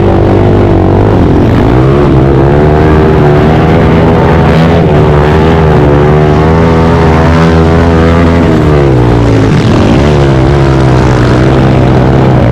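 Pit bike engines running on a motocross track, the small single-cylinder engine note rising and falling as the throttle is worked through the laps, with dips in pitch about a second in and again near the end.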